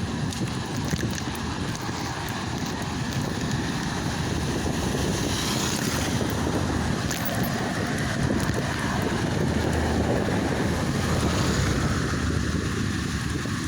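Steady wind noise buffeting the microphone, with a low rumble of travel underneath.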